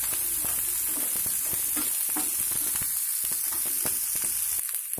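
Chopped onions, chillies and dals sizzling in a little oil in a nonstick frying pan as a tempering is stir-fried, with a steady hiss and many small scrapes and taps of the stirring against the pan.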